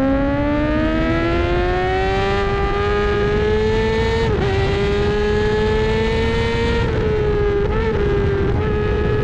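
Racing motorcycle engine at full throttle, heard on board under heavy wind rush: the revs climb steadily through a gear, drop sharply with an upshift about four seconds in, then climb again. A few short dips and blips in revs come near the end.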